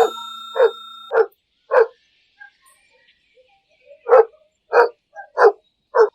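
A dog barking: two runs of four barks, each about half a second apart, with a pause of about two seconds between the runs.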